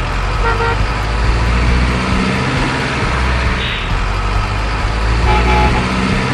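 Steady low truck-engine rumble with two short horn toots, one about half a second in and another near the end.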